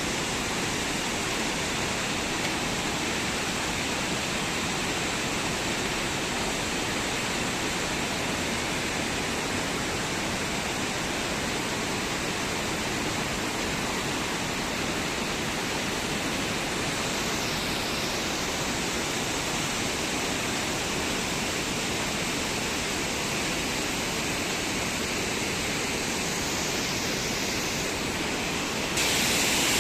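Steady rushing of running water, like a waterfall or fast stream, unbroken throughout; it turns louder and brighter about a second before the end.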